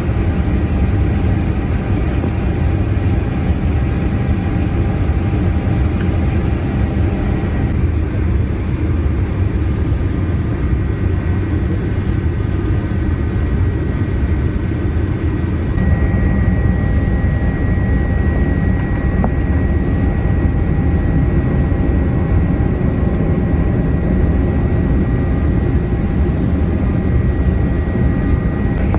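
Steady airliner cabin noise from a Boeing 787-8: engine and airflow rumble heard from inside the cabin, with faint steady tones and sudden shifts in character about a third and halfway through.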